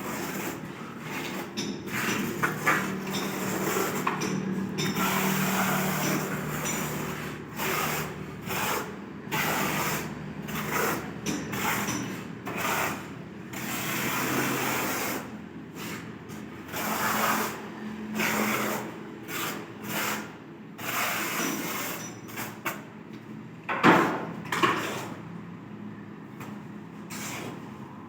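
Tiling work with hand and power tools: irregular short noisy bursts, at times over a steady motor tone, and one sharp knock near the end.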